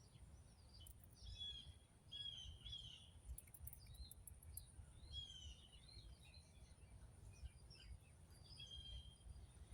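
Faint bird chirping in the background: short chirps in small clusters, every second or so, over a low, quiet rumble of room or outdoor noise.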